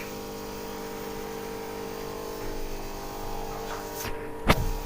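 Steady electric buzzing hum, typical of an aquarium air pump or filter motor, with a single sharp loud click near the end.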